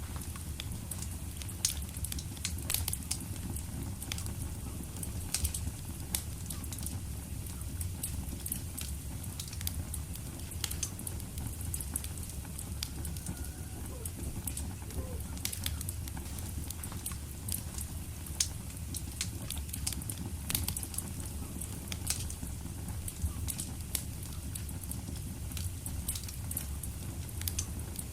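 Wood fire in a fireplace crackling: irregular sharp pops and snaps over a steady low rumble of flames.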